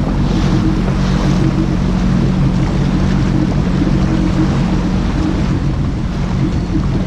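Jet ski engine running steadily at speed, with a constant rush of water and wind noise over it.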